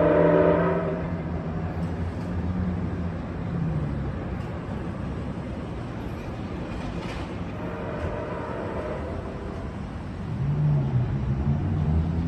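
MARC commuter train's horn chord cutting off about a second in, then the low rumble and diesel drone of the departing train; a fainter horn blast sounds around eight seconds in.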